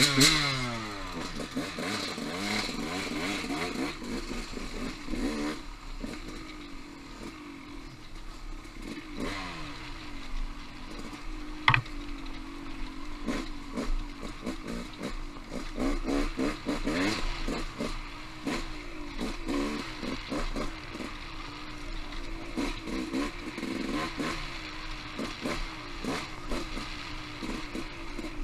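Off-road motorcycle engine running through rough going: a burst of revs right at the start that falls away, then it pulls along at low, uneven revs. Frequent knocks and clatter throughout, with one sharp crack about twelve seconds in.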